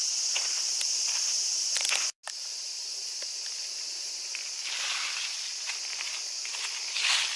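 Steady high-pitched chorus of summer cicadas, with footsteps crunching on a path. The sound cuts out for an instant about two seconds in.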